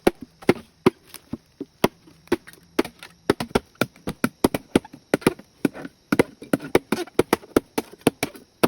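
Bamboo being chopped with a blade: a rapid, uneven run of sharp chopping strikes, about two to three a second.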